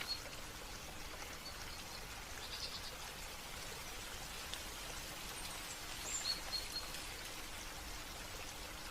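Steady running water, with a few short high bird chirps about two and a half seconds in and again around six seconds.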